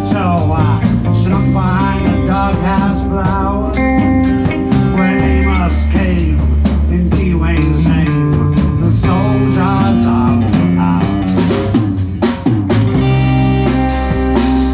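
Live rock band playing: drum kit with a steady beat and rimshots, bass guitar, and lead guitar with bending notes.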